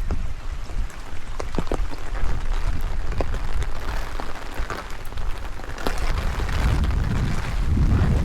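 Rain falling, with scattered drops ticking sharply close by, under a low rumble of strong wind buffeting the microphone that swells near the end.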